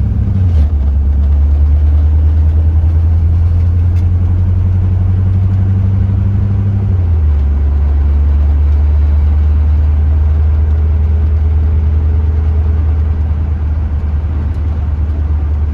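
1982 Corvette's Cross-Fire Injection 350 V8 running steadily while cruising, heard from inside the car. The low engine note drops slightly in pitch just after the start and again about seven seconds in.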